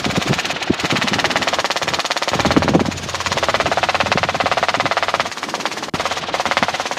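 Robinson R22 helicopter in flight, heard from inside the cabin: a loud, steady drone of engine and rotor with a fast, even pulsing.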